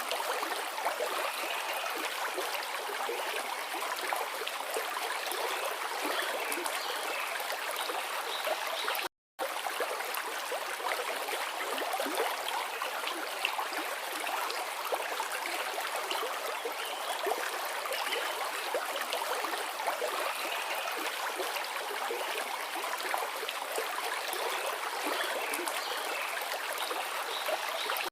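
Forest river flowing steadily, with a brief cut-out of the audio about nine seconds in.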